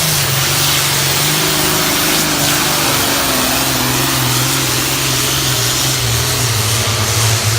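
Competition pulling vehicle's engine running hard at high, nearly steady revs during a pull, a loud drone with a heavy rush of noise over it.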